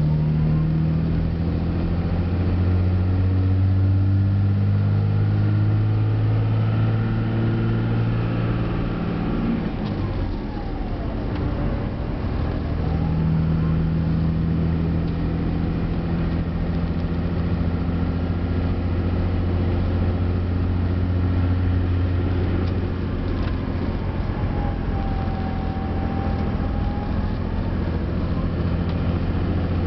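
5.9 Cummins turbo-diesel inline-six heard from inside the cab through a 5-inch turbo-back exhaust with a resonator, pulling under the load of a trailer of about 12,000 lb. The drone climbs in pitch, breaks off briefly about ten seconds in, then runs steady again.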